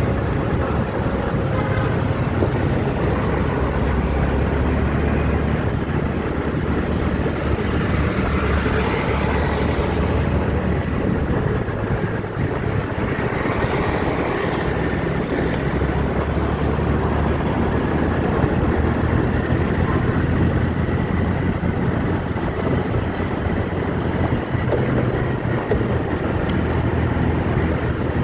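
Steady road-vehicle noise with a continuous low engine rumble and no clear single event.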